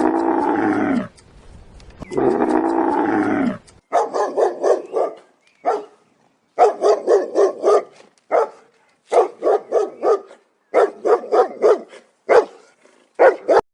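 Two long, drawn-out animal calls, then a dog barking in quick runs of short barks with brief pauses between the runs.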